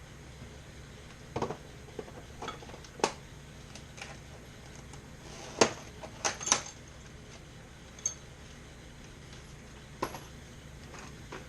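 Metal hand tools clinking and knocking against metal: a scattering of sharp, separate clinks over a low steady hum, loudest in a cluster a little past halfway.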